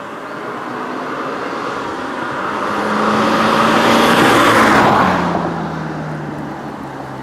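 Subaru Impreza's flat-four boxer engine and exhaust as the car drives past: the engine note builds to its loudest about four to five seconds in, then falls in pitch as the car moves away.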